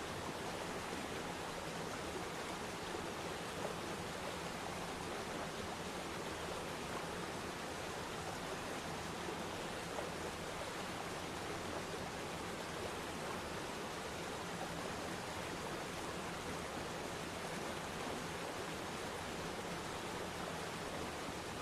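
Waterfall pouring steadily into water: an even, unbroken rush.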